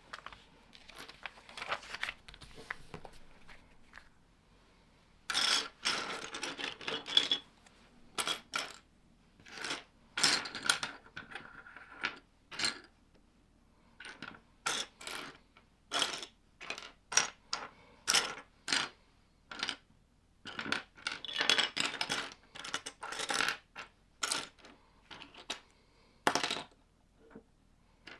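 Plastic Lego pieces being handled and snapped together: irregular sharp clicks and rattles, some in short quick runs, with quiet gaps between.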